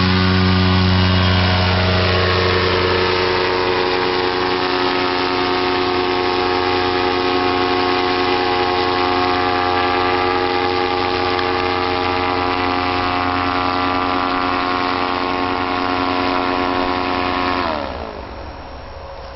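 Paramotor engine and propeller running steadily at high power, then the engine is shut off near the end and spins down with a falling pitch.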